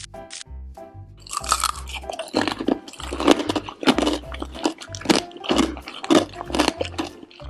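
Loud, rapid crunching and chewing of hard sugar-glazed candied strawberries (bingtanghulu), the glassy candy shell cracking with each bite, starting about a second in, over a bouncy children's music track.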